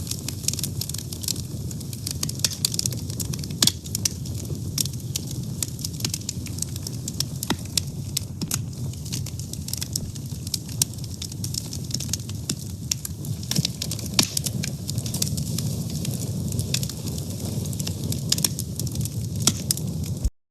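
A fire burning steadily, with frequent sharp crackles and pops over a low continuous rumble. The sound drops out for a moment right at the end.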